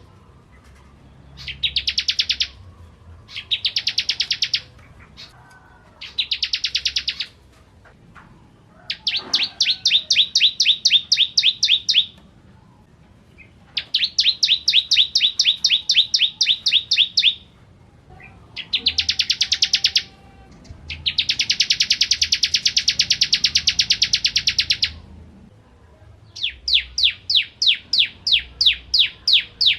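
Bar-winged prinia (ciblek) singing in repeated bursts of fast, high, clear notes. Each burst lasts from about one to four seconds, with short pauses between, and the last burst is a slower run of distinct notes.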